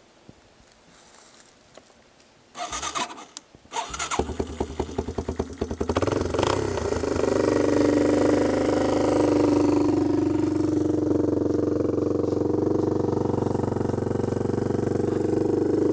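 Yamaha Timberwolf 250 ATV's single-cylinder four-stroke engine cold-starting: a short crank about two and a half seconds in, the engine catching about a second later and running unevenly for a couple of seconds, then settling into a steady idle.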